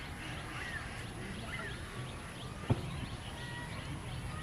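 A chorus of many small animal calls, short quick chirps overlapping one another, over a low rumble, with one sharp click a little past halfway.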